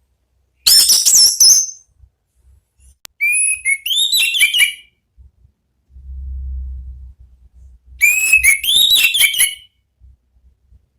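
Orange-headed thrush singing three short phrases of clear, rich whistles with sliding, rising and falling notes, each about a second long, with pauses between. A faint low rumble comes between the second and third phrases.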